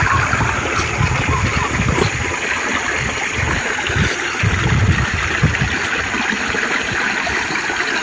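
Muddy floodwater of a river rushing and gurgling steadily, with irregular low rumbles over the first five seconds or so.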